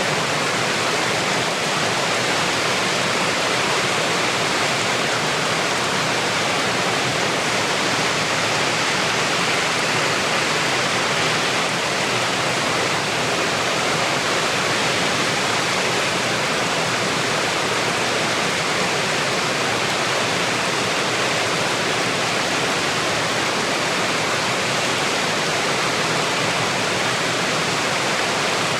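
Small waterfall splashing and rushing in a steady, even roar of falling water.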